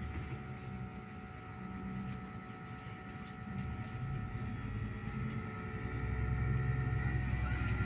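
Inside a MAZ-215 articulated city bus under way: steady engine and road hum with a faint high whine, growing louder about six seconds in as the engine works harder.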